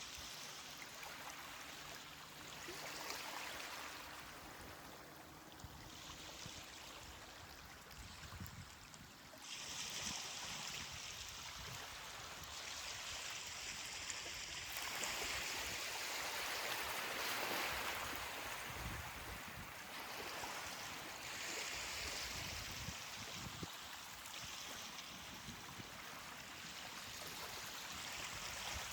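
Ocean surf washing onto a beach: a steady hiss of water that swells sharply with a bigger wave about ten seconds in, then slowly ebbs.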